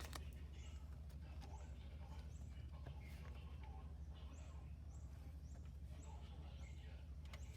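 Faint steady low hum with a few soft knocks, and from about halfway through a run of short, high chirps, about two a second, like a small bird calling.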